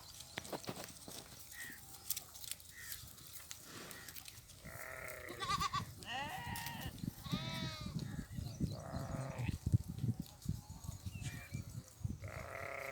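Bleating from a herd of goats and sheep: a run of four or five quavering calls starting about four seconds in, then another near the end.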